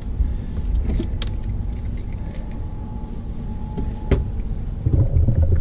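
Low steady rumble with scattered sharp clicks and knocks of fishing rods and tackle being handled in a boat.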